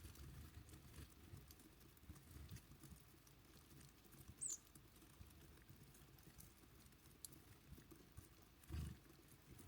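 Near silence at a winter bird feeder: faint scattered ticks like small birds pecking, and one brief high bird chirp, falling in pitch, about four and a half seconds in. A soft low bump comes near the end.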